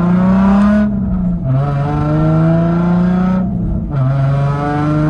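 Nissan Z car's V6 engine accelerating hard through the gears. Its pitch climbs steadily in each gear and drops at two upshifts, about a second and a half in and again near four seconds.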